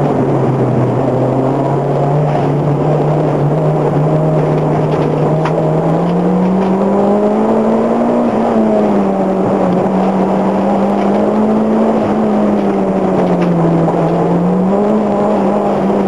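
In-car sound of a Toyota Glanza's engine pulling hard up a winding hillclimb course, with road and wind noise. The engine note holds steady for the first few seconds, climbs to a peak about halfway, eases, rises again and drops back near the end as the throttle comes on and off through the bends.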